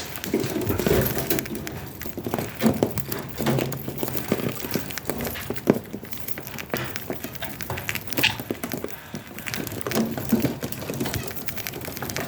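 Budgies chirping and chattering among many small clicks and taps, with a brief higher call about two-thirds of the way through.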